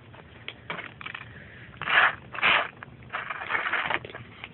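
Kittens eating from a food bowl, with scraping and crunching and two short rasping bursts close together about two seconds in.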